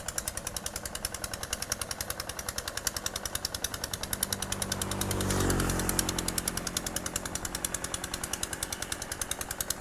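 Hand tractor's diesel engine chugging steadily with a rapid knock, about ten beats a second, as it ploughs a wet rice paddy. Near the middle a second engine swells louder and passes, its pitch dropping, then fades.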